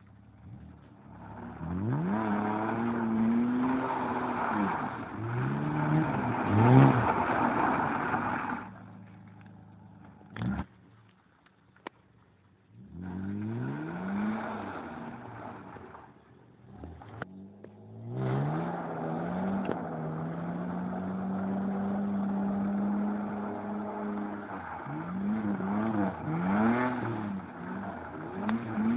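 Car engine revving hard in repeated spells, the pitch rising and falling. It drops away twice to near quiet, with a sharp knock about ten seconds in. In the second half it holds a long steady high note for several seconds before the revs swing up and down again near the end.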